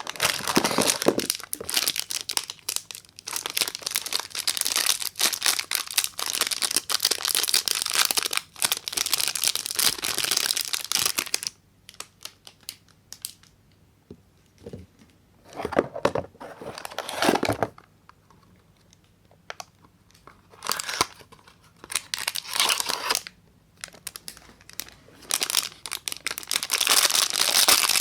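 Soap packaging being unwrapped by hand, with the wrapper crinkling and tearing. A long stretch of continuous crackling gives way, about halfway through, to shorter bursts separated by quiet pauses.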